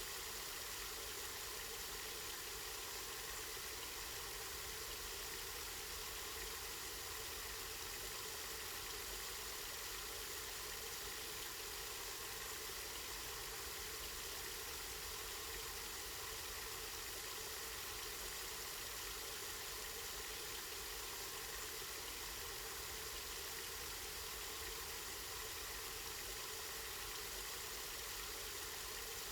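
Spring water running steadily: an even, unbroken hiss of flowing water.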